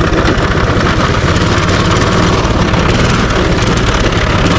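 Minibike's small single-cylinder engine running steadily at idle, loud and close.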